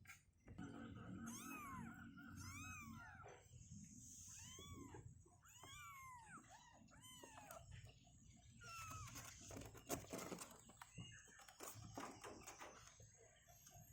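Cats meowing faintly, a string of short rising-and-falling calls, several overlapping.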